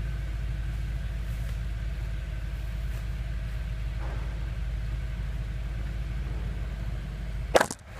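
Audi S4 B6's 4.2-litre V8 idling steadily with a low rumble. A sharp click comes about a second before the end.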